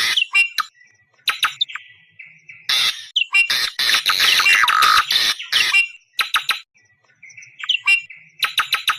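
Awar-awar bird calling in bursts of rapid, harsh chattering notes, the longest lasting about three seconds in the middle, broken by short whistled notes. This is the song and call used as a trapper's lure for wild awar-awar birds.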